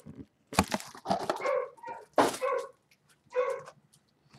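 A dog barking a few times, short barks about a second apart.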